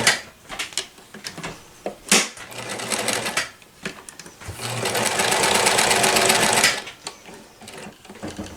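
1994 New Home Limited Edition Model 108 sewing machine stitching a zigzag stitch in stop-start runs, with a few sharp clicks, then one steady run of about two seconds that stops.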